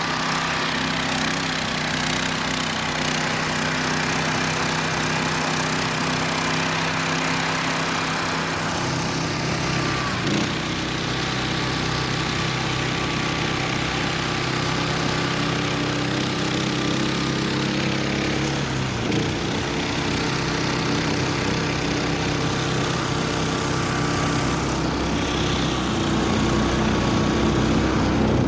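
Engine of a homemade karakat running steadily under load while it pushes through deep snow. Its note shifts a couple of times, and it gets louder near the end.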